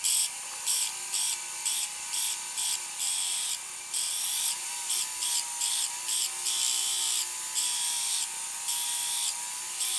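Small rotary tool running steadily with a medium abrasive disc, grinding in short repeated touches against a soldered pin joint on a metal necklace link to take down the coarse solder bump.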